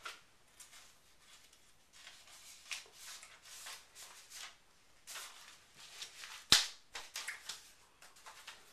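A string of soft rustles and light clicks, like small objects or paper being handled, with one sharp louder click about six and a half seconds in.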